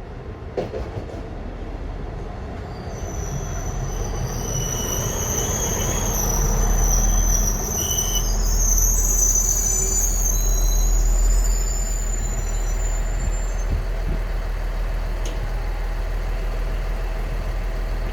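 Passenger train arriving at a station platform, running under a steady low rumble. High-pitched wheel squeal rises about three seconds in and fades out after about thirteen seconds.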